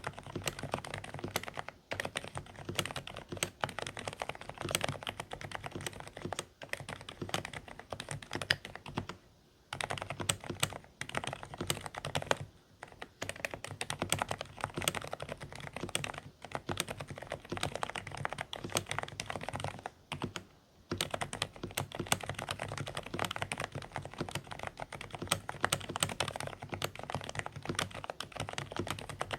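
Continuous typing on a Dareu A104 Pro mechanical keyboard with silent beige switches. The keystrokes are quiet and a little muffled, with short pauses about a third of the way in, near the middle, and about two-thirds of the way through.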